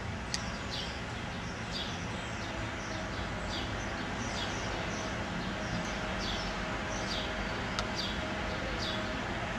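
A bird's short, high chirps, repeated about every half second, over steady outdoor background noise.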